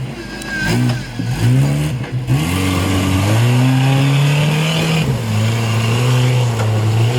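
Off-road 4x4 competition vehicle's engine revving: a few quick blips in the first two seconds, then held at high revs with a short drop about five seconds in, over a rushing noise.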